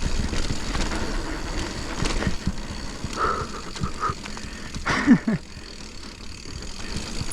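Mountain bike riding a dirt flow trail: wind rumbling on the microphone, tyres on dirt, and the bike's chain and frame rattling and knocking over bumps. A short sound that falls in pitch comes about five seconds in, and the riding noise eases off after it.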